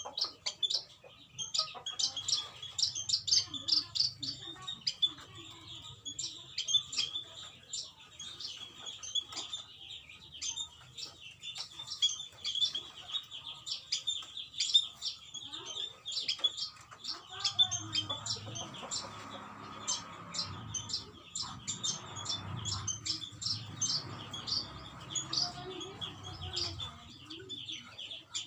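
Black-winged stilts calling in an aviary: many short, sharp, high chirps repeated in quick, continuous series. A low rumble joins in the background for several seconds past the middle.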